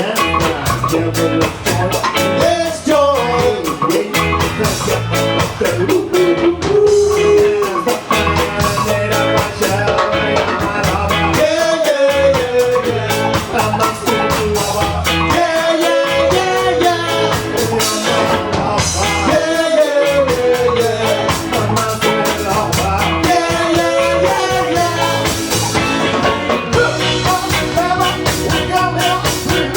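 A live ska band playing loud and steady, with a sung vocal line over guitar, bass and drums on a regular beat.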